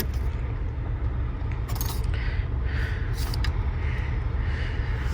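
A steady low rumble, with light clicks and rattles as the plastic steering-column trim is worked loose by hand.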